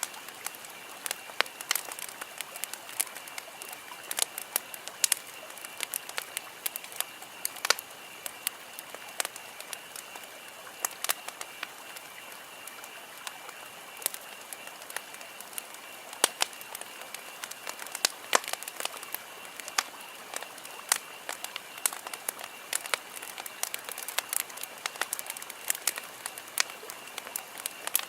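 Wood campfire crackling, with irregular sharp pops and snaps several times a second over a steady hiss and a faint steady high tone.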